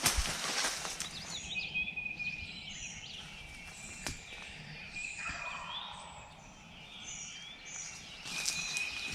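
A wild turkey gobbler gobbling faintly about five seconds in, against a backdrop of small songbirds chirping. A few crackles of movement through the brush come near the start.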